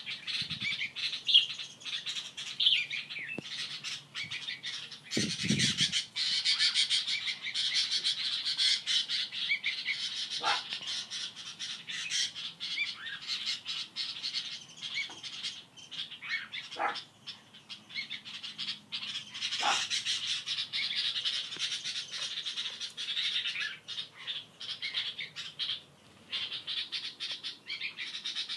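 Birds calling: rapid, continuous high-pitched chirping and squawking. A brief low thump comes about five seconds in.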